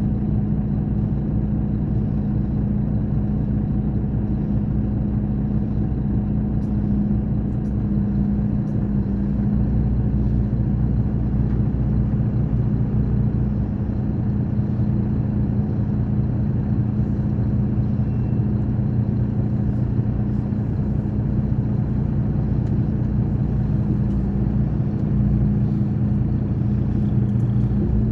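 Scania K420 coach's diesel engine running at a steady, even drone, swelling slightly now and then.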